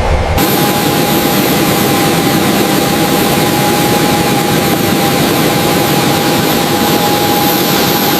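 Jet engine running loud and steady: a dense roar with a steady whine over it. About half a second in, a deep rumble gives way to the brighter roar.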